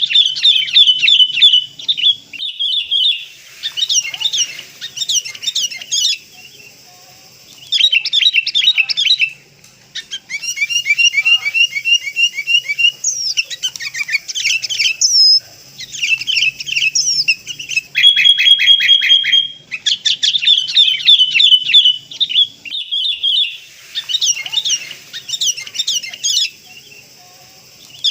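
Sooty-headed bulbul (kutilang) calling: loud phrases of rapid, chattering high notes, each a few seconds long, separated by short pauses and repeating over and over, as used in a bird-trapping lure recording.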